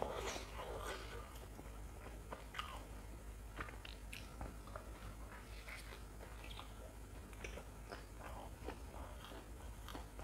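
A person biting and chewing a deep-fried lentil vade close to a clip-on microphone: a louder crunch at the start, then chewing with scattered small crackles.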